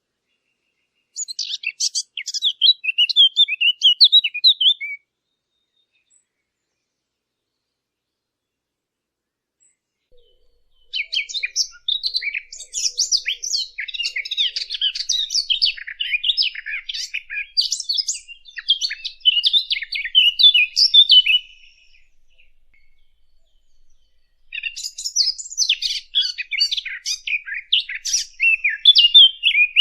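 Bird song: three bouts of rapid, varied twittering notes, separated by pauses of several seconds.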